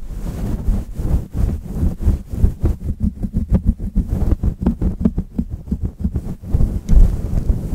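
Close-miked ASMR sounds: a rapid run of small clicks over low rumbling bumps from hands moving right against the microphone, with a louder thump about seven seconds in.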